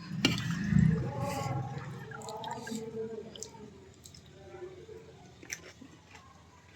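Close-miked eating of a golgappa (pani puri): a crisp bite about a quarter second in, then wet chewing that grows fainter.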